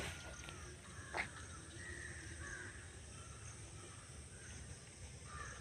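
Faint bird calls: a few short calls about two seconds in and again near the end, with one light knock a little over a second in.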